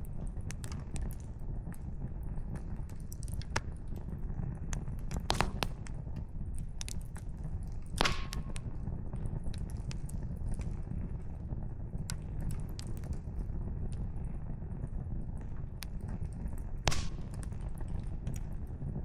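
Wood campfire crackling, with scattered sharp snaps of burning firewood and three louder pops, the loudest about eight seconds in, over a steady low rumble.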